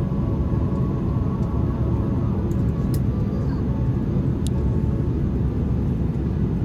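Steady cabin rumble inside an Airbus A330-200 in flight, the noise of its Rolls-Royce Trent 700 engines and the airflow past the fuselage heard from a window seat, with a few faint clicks.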